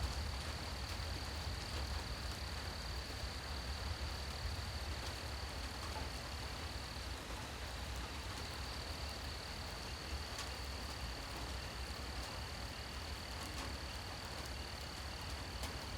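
Steady night rain falling: an even hiss with scattered drop ticks and a low rumble underneath. An insect, likely a cricket or katydid, trills continuously on one high note throughout, breaking off briefly about halfway.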